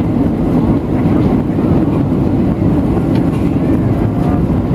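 Steady, loud cabin noise inside a Boeing 737-700 in flight: a low rumble of airflow over the fuselage and its CFM56-7B turbofan engines.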